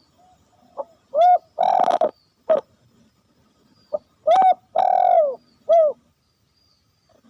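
Spotted dove cooing: two repeated coo phrases, each a short note, an arched coo, a longer rolling coo and a closing short coo.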